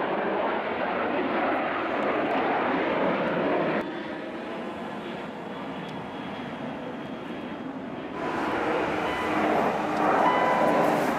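Subaru Legacy's 2.5-litre flat-four boxer engine running steadily after start-up. It drops a little in level about four seconds in and picks up again about eight seconds in.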